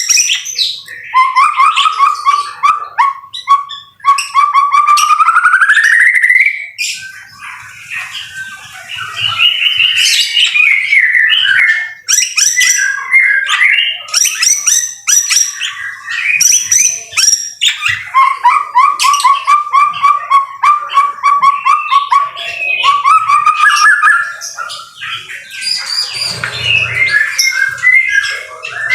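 White-rumped shama (murai batu) singing vigorously: a continuous, varied song of loud whistled phrases, chattering notes and rapid trills. Twice it holds a long, fast trill on one pitch, the first sweeping upward at its end.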